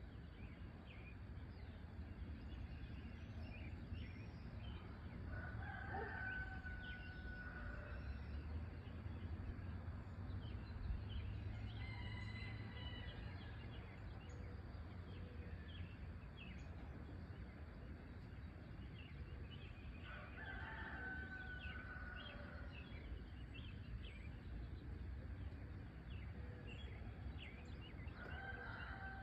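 A rooster crowing three times, about 6 s, 20 s and 28 s in, each crow a long held call. Small birds chirp briefly throughout, over a low, steady background rumble.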